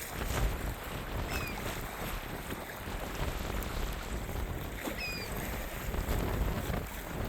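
Gusty wind rumbling on the microphone, with two short, high chirps, one about a second in and another about five seconds in.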